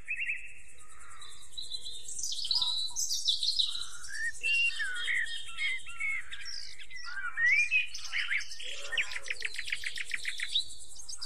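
Several birds chirping and whistling over one another in quick, varied calls, with a steady, fast-pulsing high buzz underneath.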